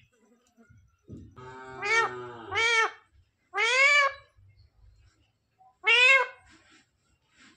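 Green parrot giving four drawn-out calls, each rising then falling in pitch, after a low rough note about a second in.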